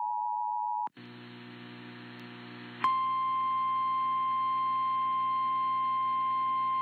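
EAS alert audio: the end of the two-tone attention signal, two steady tones held together, cuts off after about a second. Then comes a brief dropout and the hum and hiss of a relayed weather-radio feed. About three seconds in, a single steady 1050 Hz NOAA Weather Radio warning alarm tone starts and holds, the alert that precedes a severe weather warning.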